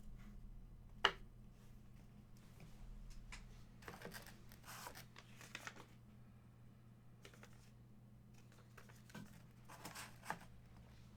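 Rustling and tearing of trading card packaging as cards and wrappers are handled. There is a sharp click about a second in, and the whole runs over a steady low hum.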